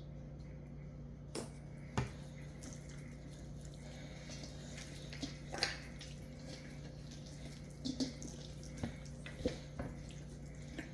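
Hands rubbing mustard into the skin of a wet, raw brined turkey: scattered soft squelches and slaps over a steady low hum.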